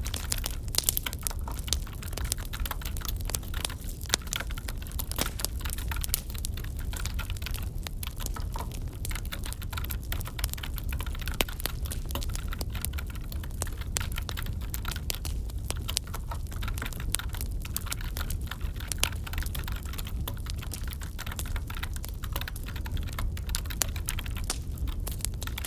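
Wood fire crackling in a fireplace: a steady low rumble with many irregular sharp snaps and pops.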